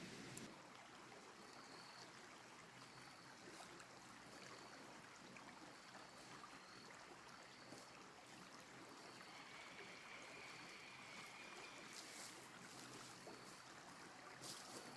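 Faint steady flow of a creek, with a short high chirp repeating about every second and a half and a longer thin tone about ten seconds in.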